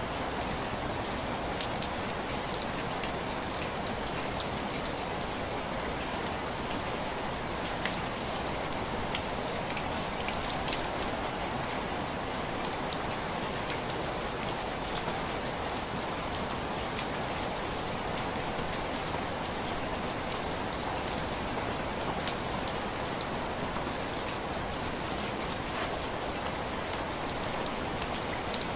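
Steady rain falling on a window pane: an even rush of rain with irregular, distinct drops tapping on the glass.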